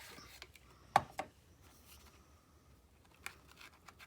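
Paper and craft supplies being handled on a work table: a sharp tap about a second in, a softer one just after, then a run of light clicks and paper sounds near the end.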